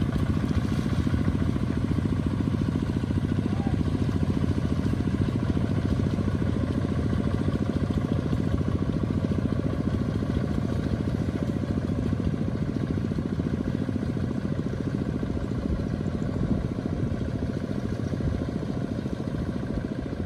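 Small tractor's single-cylinder engine running steadily with a fast low chugging beat, fading slightly toward the end.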